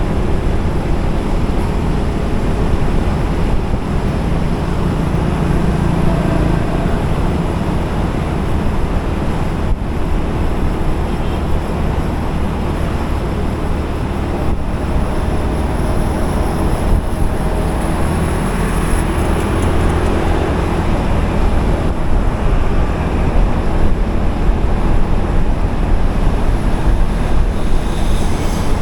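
Motorcycle being ridden along a busy highway in traffic: steady, loud road noise from the engine, tyres and passing vehicles, heaviest in the low end.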